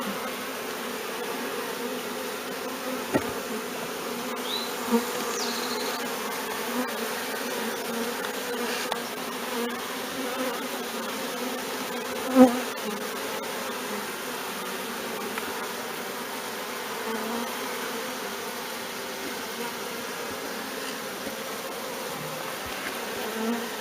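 A swarm of honey bees buzzing, a steady hum of many wings with wavering tones. A brief sharp knock sounds about halfway through.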